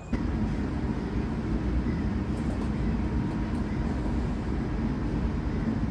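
Argo Sindoro passenger train running along the line, a steady low rumble with a few faint ticks about two to three seconds in.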